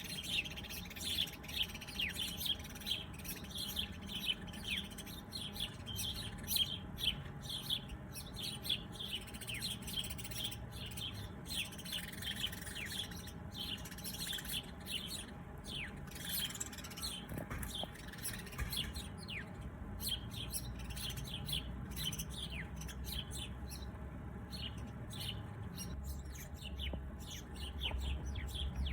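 A chorus of small birds chirping: many short, quick high chirps, often dropping in pitch, overlapping densely, then thinning out for a few seconds past the middle before picking up again.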